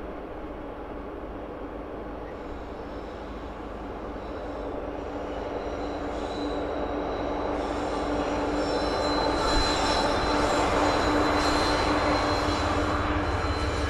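A train approaching on mountain railroad track, growing louder over the first several seconds, with a steady high squeal and a lower steady tone from its wheels on the rails.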